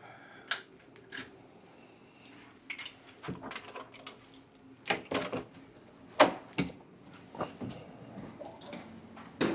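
Scattered light clicks, knocks and clinks of small hard objects being handled at irregular moments, the sharpest about six seconds in, over a faint low hum.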